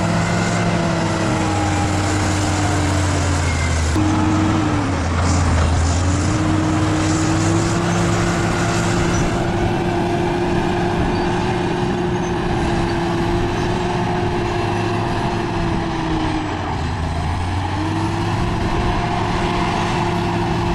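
Bulldozer's diesel engine running steadily, its pitch sagging briefly twice, as it does when the engine is pulled down under load.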